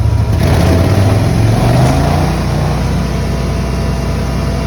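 Forst ST6P wood chipper's engine speeding up from idle, its pitch rising over about a second and a half, then running steadily at the higher speed.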